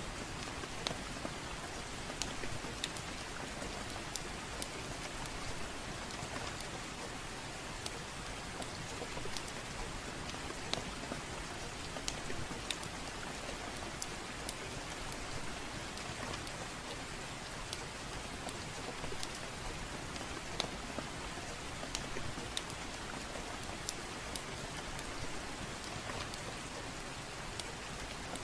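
Steady soft rain, with scattered sharp crackles and pops from a wood fire in a fireplace.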